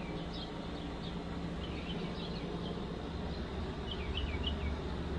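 Small birds chirping in short clusters of quick high notes, three times, over a steady low hum.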